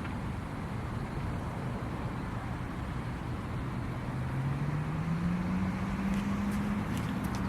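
Boeing 777-300ER's GE90 jet engine spooling up during its start: a steady rumble with a low hum that rises in pitch about four seconds in, then holds as the sound grows louder. A few faint clicks come near the end.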